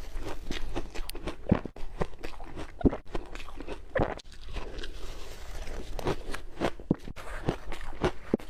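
Ice being bitten and chewed close to the microphone: many quick, irregular crunches, several a second.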